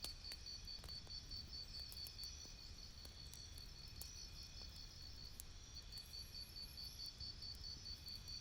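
Faint campfire crackle with scattered small pops, under a steady, rapidly pulsed high chirping of insects such as crickets that drops out briefly a little past halfway.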